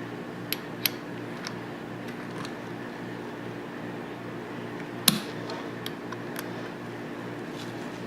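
Sharp metallic clicks and taps from Tokarev TT-33 pistol parts being handled and fitted during reassembly. There are a handful of them, the loudest about five seconds in, over a steady background hum.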